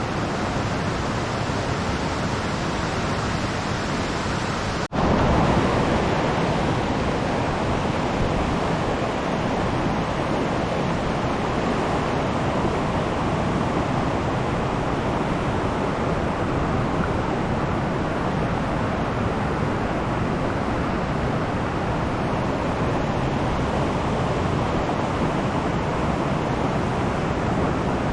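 Small mountain stream running, a steady rush of flowing water. It cuts out for an instant about five seconds in and comes back slightly louder.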